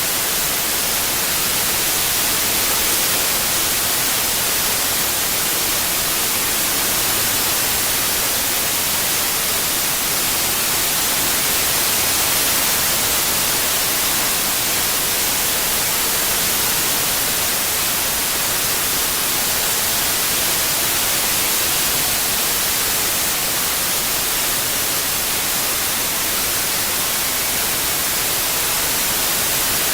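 Synthetic white noise: a steady, even hiss strongest in the treble, with no breaks or changes in level.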